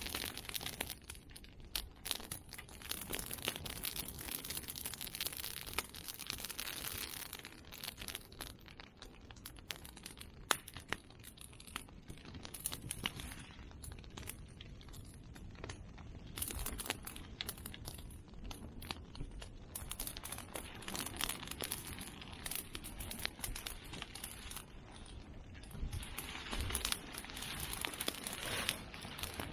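Bonfire of cut Simon bamboo and chestnut prunings burning, with dense continuous crackling and scattered sharp pops from the bamboo bursting in the heat; one louder pop stands out about ten seconds in.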